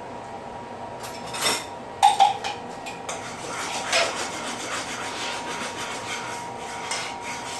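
A utensil stirring and scraping a cream sauce around a pan, with two sharp clinks against the pan about two seconds in.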